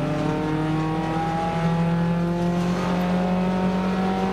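Nissan March race car's engine heard from inside the cabin, pulling under full throttle with its pitch rising steadily as it climbs through the revs.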